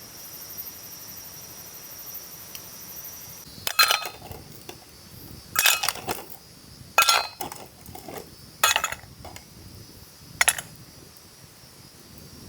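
Metal cookware and utensils clinking and clattering as they are handled: five sharp knocks with a brief ring, one to two seconds apart. A steady high insect drone runs under the first few seconds and then stops.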